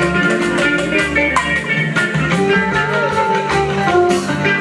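Live fuji band music: a guitar with percussion keeping a steady beat.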